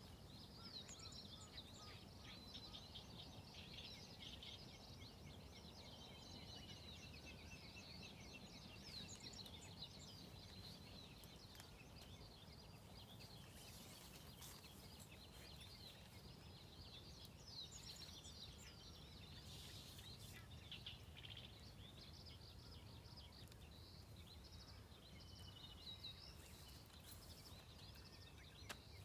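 Faint birds chirping and calling, many short chirps with a few falling whistles, over a low steady rumble.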